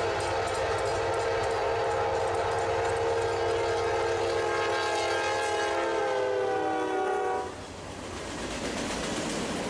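Union Pacific locomotive's air horn sounding one long chord as the train approaches, its pitch sagging as the locomotive passes, then cutting off about seven and a half seconds in. The rolling rumble of the passing train's wheels on the rails follows and grows.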